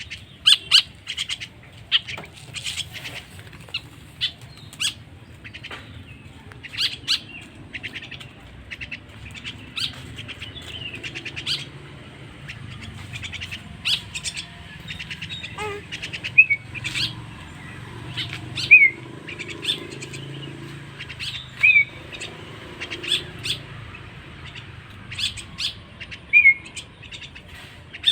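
Young hand-raised starling (jalak) chick calling: many short, sharp chirps and clicks at irregular intervals, some with a quick bend in pitch.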